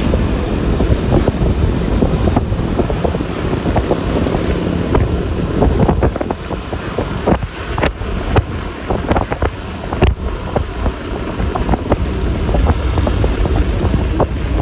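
Wind rushing over the microphone of a moving motor scooter, with the scooter's running and road noise underneath. A run of sharp crackles and knocks comes between about five and ten seconds in.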